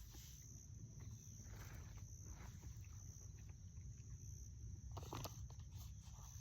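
Faint, steady, high insect trill, typical of crickets, with a few soft short sounds scattered through, the clearest about five seconds in.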